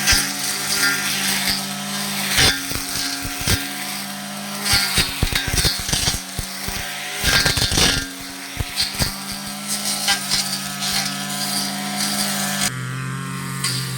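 Petrol brush cutter running while cutting weeds and grass, with a series of sharp cracking strikes as it hits the growth between about 2 and 8 seconds in. Near the end the engine drops to a lower, slower note.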